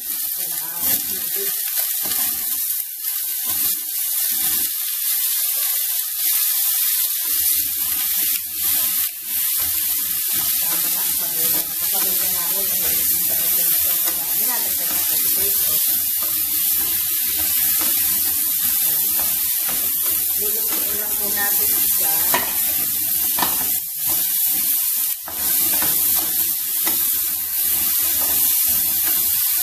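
Potato and carrot chunks sizzling in hot oil in a stainless steel frying pan, with scattered sharp clicks as pieces drop in and a spatula stirs them.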